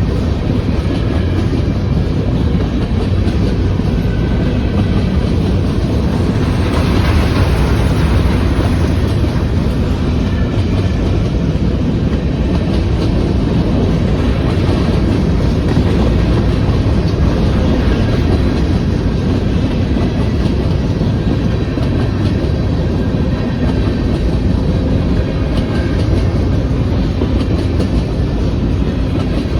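Empty grain hopper cars of a long freight train rolling past, a steady loud rumble with wheels clacking over the rail joints. A harsher, brighter stretch of wheel noise comes about seven seconds in.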